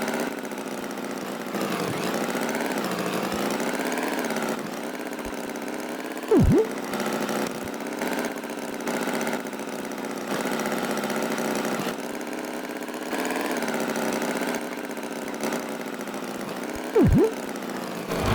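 A steady, buzzy engine hum with slowly wavering pitch, like an idling motor sound effect, and two short sweeping tones about six seconds in and again near the end.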